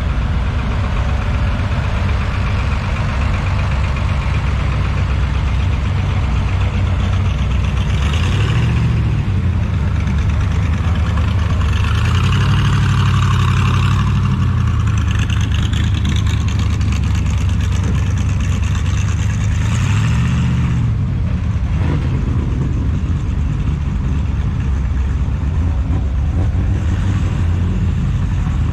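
A car engine running slowly at a low, steady note, with the revs rising briefly and dropping back three times: about eight seconds in, for a couple of seconds around thirteen seconds in, and about twenty seconds in.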